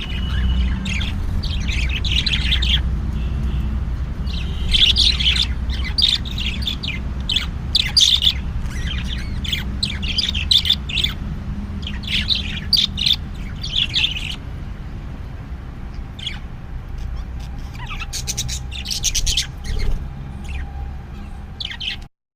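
Birds chirping and squawking in many short, high calls, some in quick runs, over a steady low hum.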